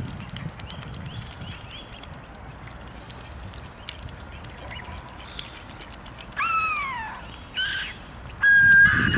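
Bird calls: a few faint short high calls in the first two seconds, then from about six seconds in several louder calls, the first clear and falling in pitch, a short one after it, and near the end a held, steady note.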